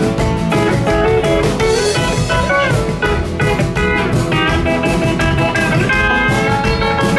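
A band playing the song live in an instrumental stretch: guitars carry the melody over a steady drum beat.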